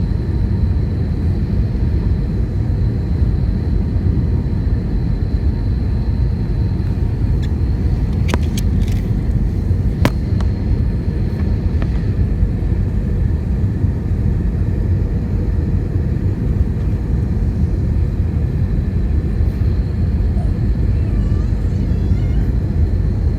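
Steady low rumble inside an airliner's passenger cabin as it descends to land: engine and airflow noise, with a couple of faint clicks about eight and ten seconds in.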